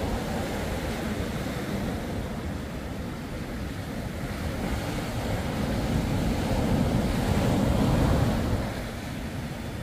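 Surf breaking and washing up the beach, with wind buffeting the microphone; the wash swells louder a few seconds before the end, then eases.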